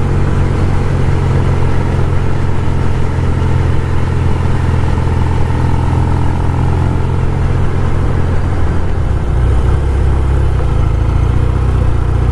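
1974 Norton 850 Commando's air-cooled parallel-twin engine running steadily while cruising in fourth gear, with wind rush over it. About nine seconds in the engine note changes, its lowest tone growing stronger.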